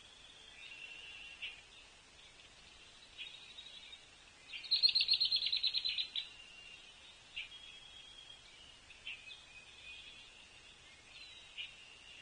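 Wild birds singing and calling, with faint scattered notes throughout and one loud, rapid trill-like series of about a dozen high notes about five seconds in.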